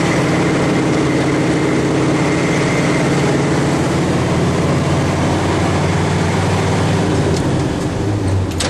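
A mid-1970s farm truck's engine running steadily in gear, heard from inside the cab. Near the end the engine note changes and there is a sharp click, as of the driver working the clutch and gearshift.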